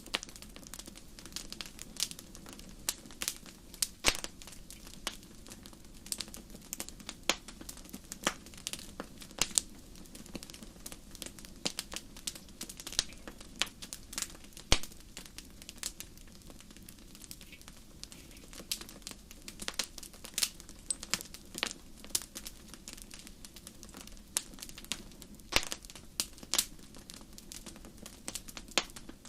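Wood fire crackling, with sharp snaps and pops at irregular intervals over a steady low rush of burning.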